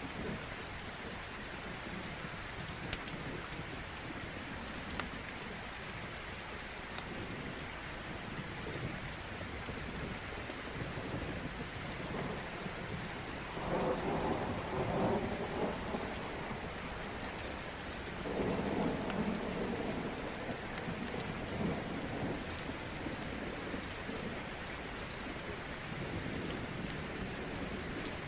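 Steady rain with scattered small pops of a crackling wood fire, and two louder rumbles of thunder about halfway through.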